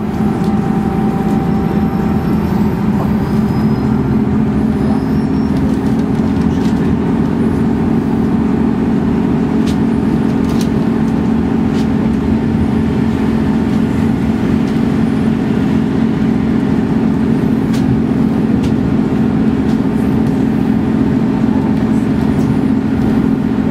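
Diesel passenger train running, heard from inside the carriage: a steady engine hum with rumbling wheel-on-rail noise, the hum growing stronger about three seconds in, with a few light clicks.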